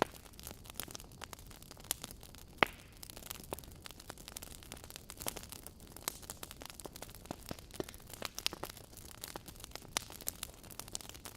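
Wood fire burning with irregular crackles and pops over a soft hiss. One sharp pop, the loudest, comes about two and a half seconds in.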